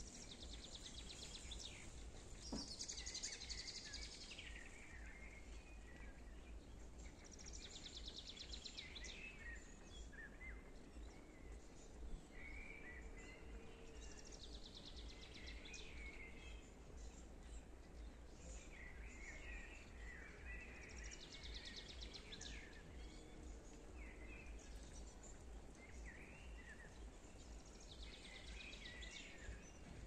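A songbird singing faintly, repeating a short phrase of rapid trilled notes about every six seconds, over a steady low background rumble.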